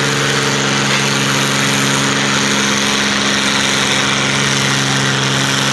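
Oliver 1655 diesel tractor engine running at a steady speed, one even engine note that holds its pitch without revving up or down.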